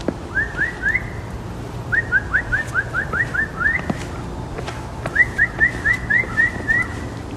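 A songbird singing phrases of short rising whistled notes, about five a second, three phrases in a row with short pauses between.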